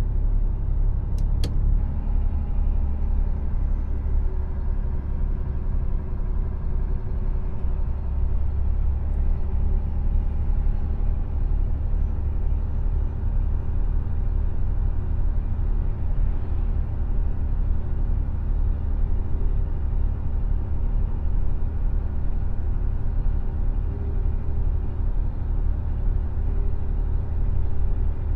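Mercedes Actros truck's diesel engine and tyres running on the road, a steady low rumble with a faint engine hum. Two short clicks about a second in.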